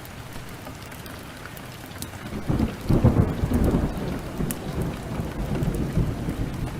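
A roll of thunder swells about two seconds in, is loudest around three seconds, and rumbles on more softly to the end, over a steady downpour of heavy rain.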